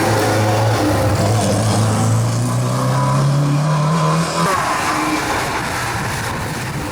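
Rally car engine accelerating hard, its pitch climbing steadily for about four seconds, then the driver lifts off and the engine note drops away into a rougher, quieter stretch.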